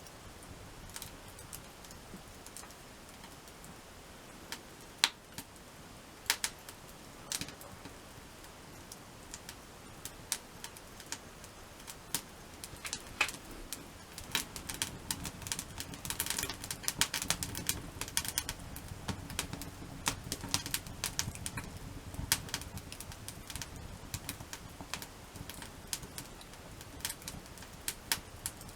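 Wood campfire crackling, with sharp single pops scattered irregularly. About halfway through, the crackling thickens for several seconds over a low rumble.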